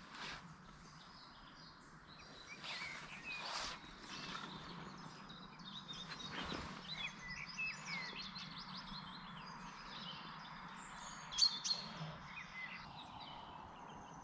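Small birds chirping and twittering, many short calls overlapping over a faint steady background, with the loudest call about eleven seconds in.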